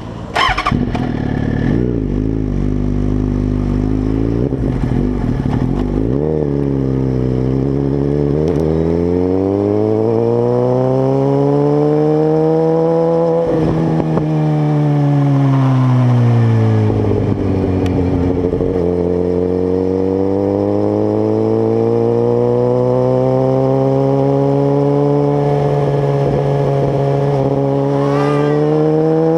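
Suzuki GSX-R1000 inline-four engine through a Two Brothers aftermarket exhaust, running low with a couple of short throttle blips. The revs then climb slowly, fall away, and climb again.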